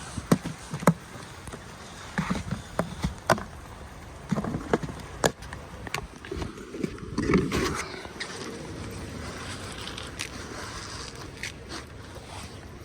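Irregular knocks and taps, thickest in the first half, over a steady rush of wind noise.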